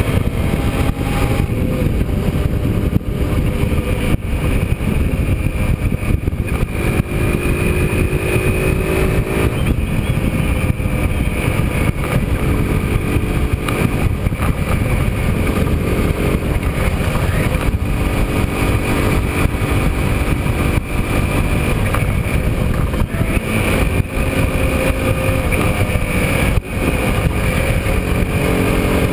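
Engines of 125 cc racing motorcycles running hard, the pitch rising and dropping repeatedly as the bikes rev and change gear.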